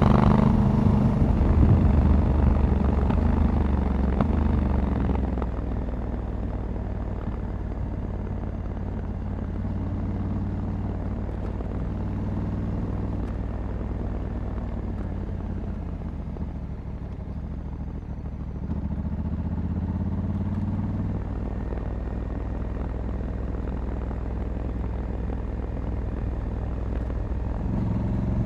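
Honda Africa Twin 1100's parallel-twin engine running under way, heard from the rider's position. It is louder for the first few seconds, settles to a steady cruise, and the engine pitch rises briefly about two-thirds of the way through and again near the end.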